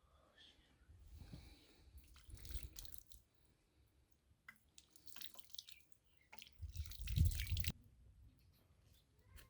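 Water splashing and dripping in a few irregular bursts, the loudest about seven seconds in.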